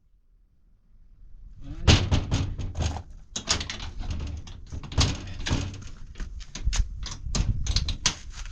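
A rapid run of irregular knocks, bangs and scuffing that starts about two seconds in and keeps going, with several sharper strikes among them.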